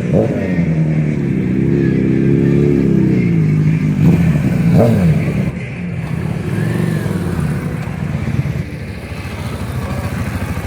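Motorcycle engine running with two sharp blips of the throttle, one right at the start and one about five seconds in. It then settles back to a lower, steadier running sound.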